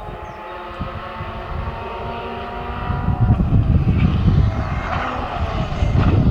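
Rally car engine at speed approaching along the stage, its engine note growing louder over the second half.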